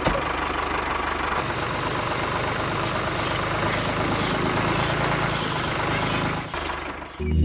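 Small electric motor of a homemade model tractor and chaff cutter running steadily. The sound changes abruptly about a second and a half in, then cuts off near the end as music begins.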